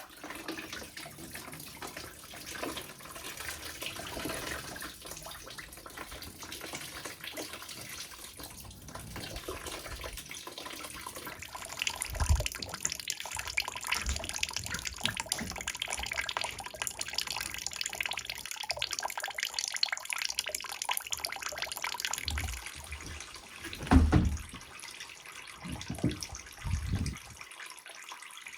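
Liquid running or pouring steadily, growing louder about halfway through. Near the end come a few low thumps, the first the loudest.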